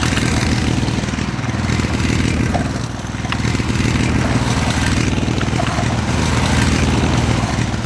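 An engine running steadily at a low, even pitch, with small clicks and knocks over it.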